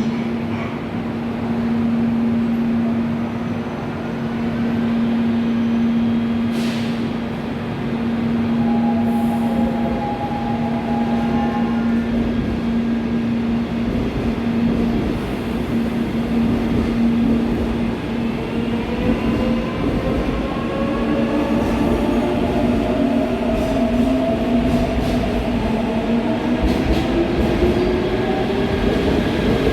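Seoul Subway Line 4 electric train at the platform with a steady hum. From about two-thirds of the way through, the traction motors' whine rises in pitch in several tones together as the train accelerates.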